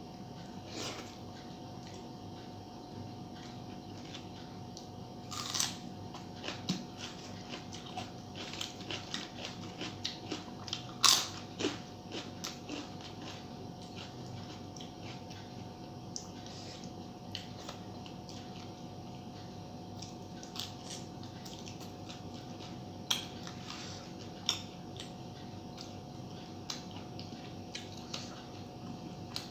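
A person eating: chewing and crunching mouth sounds, a run of crisp crunches from about 8 to 12 seconds in with the loudest about 11 seconds in, and a few more later, over a faint steady hum.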